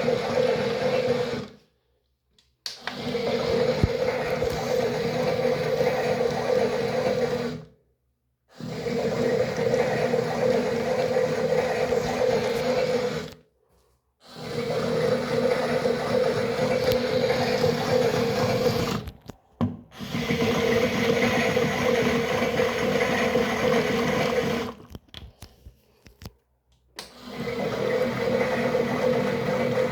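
Small electric motor of a toy washing machine running in repeated stretches of about five seconds, each cut by a brief silence: a steady hum with a churning noise over it.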